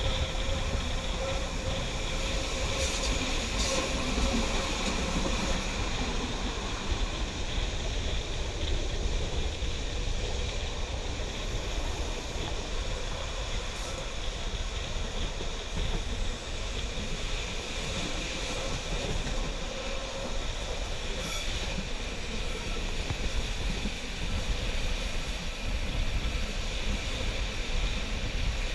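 Rhaetian Railway passenger train running along the track, heard from a carriage window: a steady rumble of wheels on rail, with a thin wheel squeal that comes and goes and a few clicks over rail joints.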